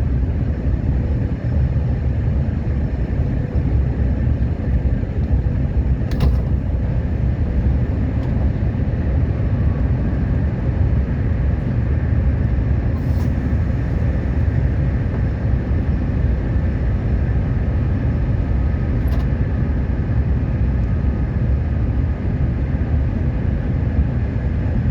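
Subway train running at speed, a steady low rumble with a faint steady whine, and three faint light clicks spaced several seconds apart.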